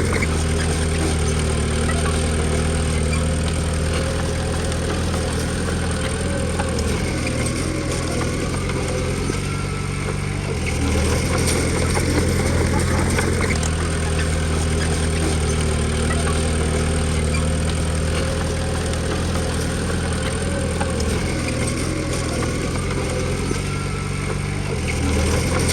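Komatsu D20P bulldozer's diesel engine running steadily under work, its note shifting briefly about ten seconds in and again near the end.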